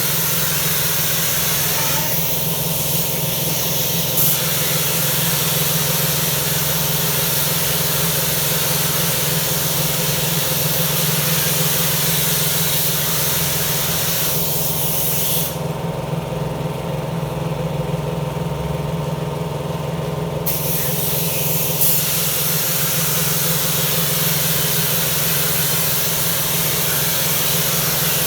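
Pressure washer spraying, a loud hiss of water over the steady hum of its running motor. The spray eases briefly a couple of seconds in and stops for about five seconds past the middle while the motor keeps running, then starts again.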